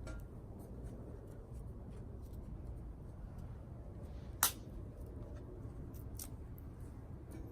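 Scattered light clicks and taps over a low steady rumble, with one sharp click or snap about four and a half seconds in.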